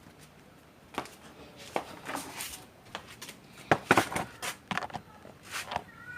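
Irregular knocks, clicks and short scraping sounds from the parts of an egg incubator being handled and cleaned of fine dust left by hatched chicks.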